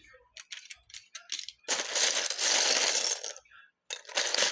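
Small plastic Lego pieces clicking against each other a few times, then about two seconds of dense clattering of loose bricks being stirred or poured, with another burst of clattering near the end.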